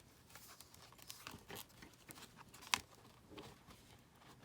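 Paper journal pages being handled as strips are worked through their punched holes with a large needle: faint rustling and small clicks, with one sharper tap a little before three seconds in.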